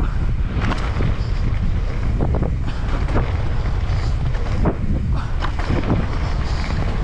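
Strong wind buffeting an action camera's microphone while riding a mountain bike downhill, a constant low rumble with scattered knocks and rattles from the bike on the trail.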